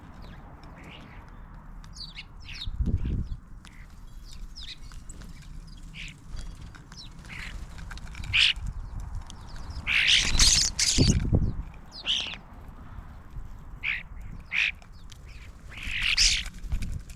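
Ducks quacking among other bird calls, in a run of many short calls. A few low rumbles come through, the loudest about ten seconds in.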